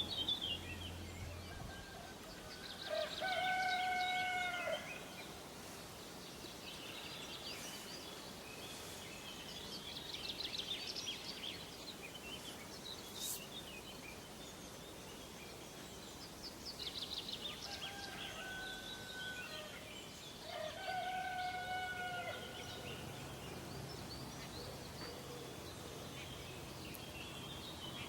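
Birds calling over a steady outdoor background hiss: small birds chirp and trill high throughout. Twice, a louder drawn-out call with a held, slightly nasal-sounding note lasting about a second and a half comes in, about three seconds in and again just after twenty seconds.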